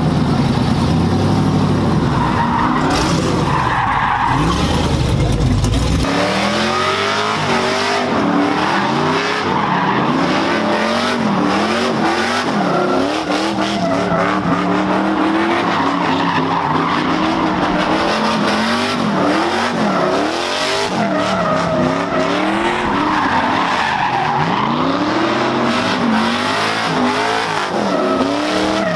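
A car engine revving up and down over and over while its tyres squeal, as a car drifts or spins donuts. For the first six seconds a deep rumble dominates, then it stops abruptly and the rising and falling revs carry on.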